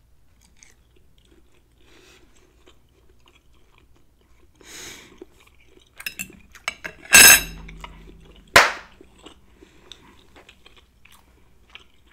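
Close-miked chewing of a bite of tender pork chop, with soft mouth sounds. Then a knife and fork cut on a ceramic plate: a short, loud ringing scrape about seven seconds in, and a sharp clink of cutlery about a second and a half later.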